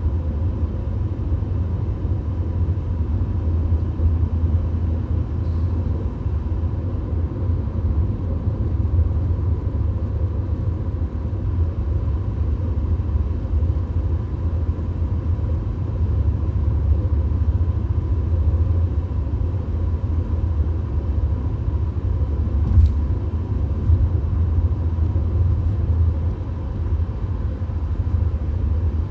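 Steady low road and engine rumble inside a VW Golf's cabin at highway speed, even in level throughout, with a single short click about three quarters of the way through.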